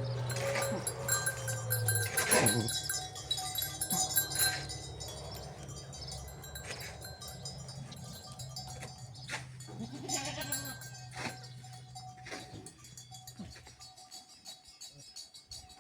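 Farm animals bleating, with scattered knocks and clinks and a steady low hum that stops near the end.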